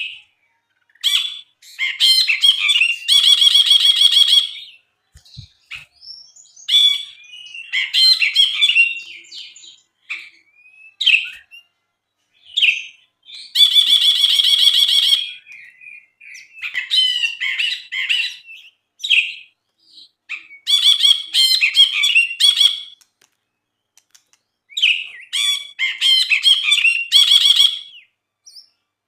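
A brinji (bulbul) singing loudly in repeated phrases a second or two long, separated by short pauses. The phrases mix quick, sharp chattering notes with harsh, buzzy rattling trills.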